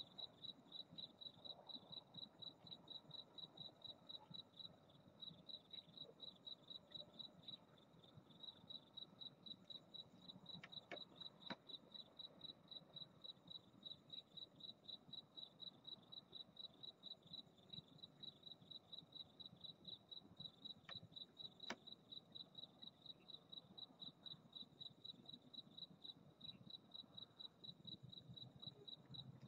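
A cricket chirping steadily and faintly, a single high-pitched chirp repeated about three times a second, with a few soft clicks in between.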